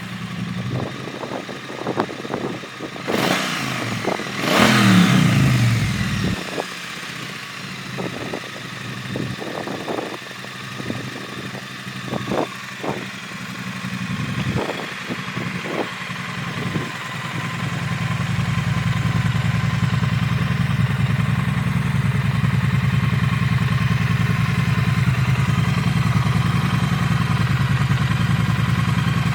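Triumph Street Twin's 900 cc parallel-twin engine, blipped twice so the revs rise and fall early on. A few knocks and clicks follow, then the engine settles into a steady idle for the second half.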